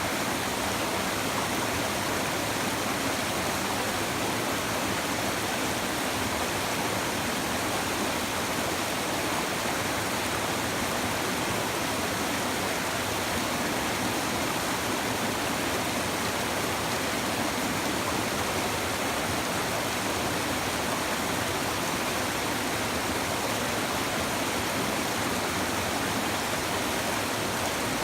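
River water babbling and rushing over stones, a steady, even wash of sound that does not change.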